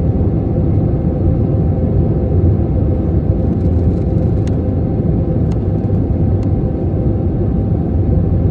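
Steady low rumble of an airplane in flight.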